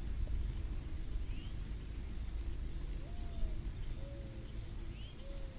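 Outdoor lakeside ambience: a steady low rumble with faint short bird calls, a few higher chirps, and from about halfway a run of short calls about once a second.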